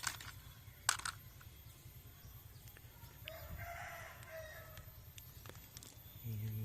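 A rooster crows once, about three seconds in, the call lasting over a second. Two sharp clicks come near the start and a short low hum near the end.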